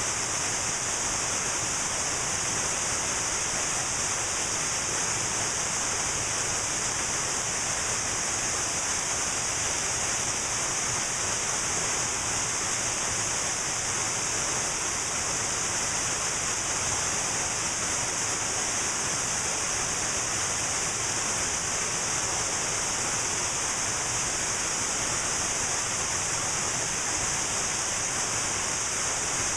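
Cascading waterfall rushing steadily: an unbroken hiss, strongest in the high treble.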